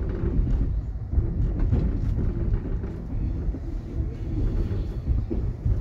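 Steady low rumble of a moving Intercity passenger train, heard from inside the carriage: wheels running on the rails, with scattered light clicks and knocks.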